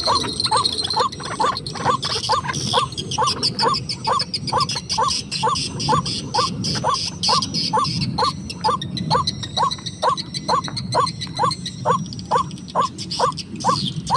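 A bird calling a short, falling note over and over, about three times a second, steady and even, with fainter higher chirping behind it.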